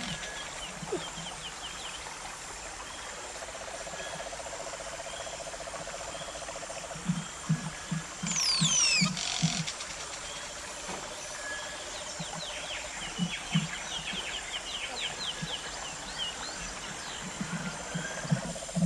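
Wild birds calling in the open countryside: a few loud, quickly falling whistles about eight seconds in, then runs of short chirps. Behind them runs a steady low buzzing trill that comes and goes, along with some soft low pulses.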